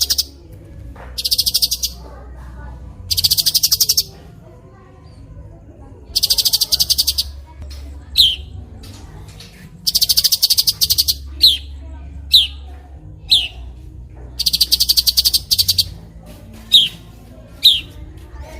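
Birdsong training recording: rapid, buzzy trills about a second long, repeating every two seconds or so, with short, sharp notes sliding downward in pitch between them in the second half, over a low steady hum.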